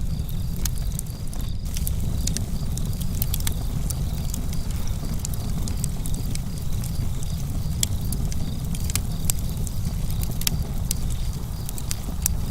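Campfire burning, crackling with frequent sharp irregular pops and snaps over a steady low rumble.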